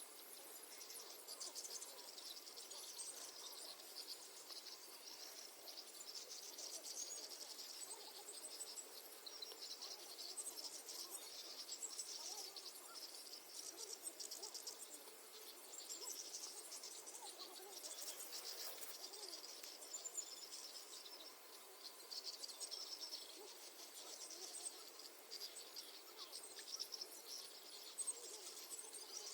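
Faint, steady chorus of crickets chirring at dusk: fast high-pitched pulsing that continues without a break.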